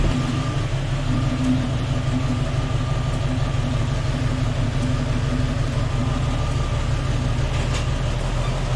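Jeep Cherokee's 4.0-litre inline-six engine running steadily at low speed as the Jeep creeps forward.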